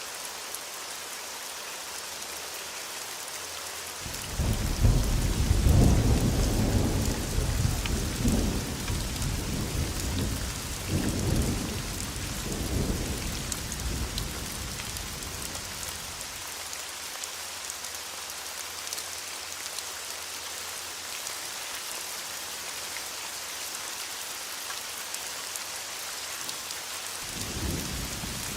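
Steady heavy rain hissing, with a long roll of thunder that breaks in suddenly a few seconds in, swells several times and dies away about halfway through. Another rumble of thunder begins near the end.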